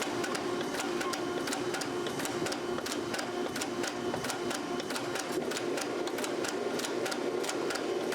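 A machine running steadily with a constant hum and a regular sharp ticking about three times a second.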